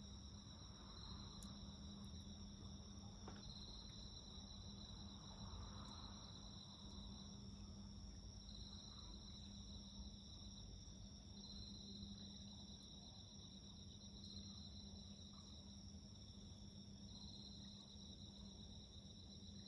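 Faint, continuous high trilling of insects, swelling a little every couple of seconds, over a low steady hum, with one or two faint crackles from the wood fire.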